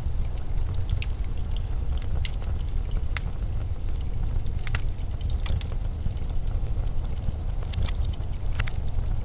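Steady, low blizzard wind rumble, with irregular sharp crackles and clicks scattered over it.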